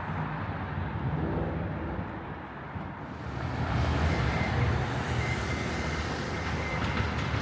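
Urban street ambience with a passing vehicle: the noise swells about three seconds in and carries a thin, steady high whine through the second half.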